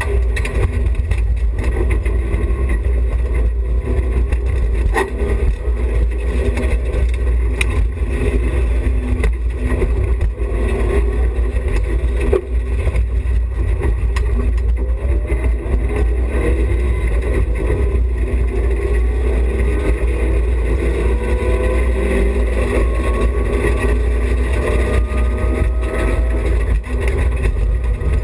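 BMW E30 316i rally car's 1.6-litre four-cylinder engine running hard over a steady rumble of car noise. Its pitch rises several times in the second half as it revs up through the gears.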